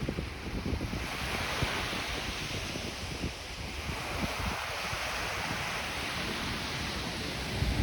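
Small waves on Lake Ontario washing onto a sandy beach. A wash of surf swells about a second in and eases off a few seconds later. Wind buffets the microphone with a low rumble throughout.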